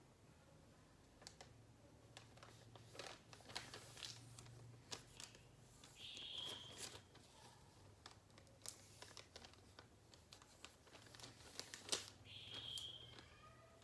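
Quiet rustling and crinkling of a sheet of calendar paper being folded and creased by hand: scattered small crackles and taps, with two longer sliding rubs, one about halfway through and one near the end.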